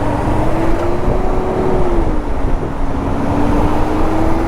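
Honda CB500X parallel-twin motorcycle riding in slow highway traffic: a steady engine note that rises and falls gently twice, over constant road and wind rumble.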